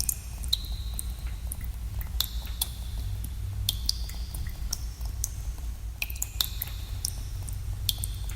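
Water drops falling irregularly in a cave, about one every second, many landing with a short ringing plink, over a steady low rumble.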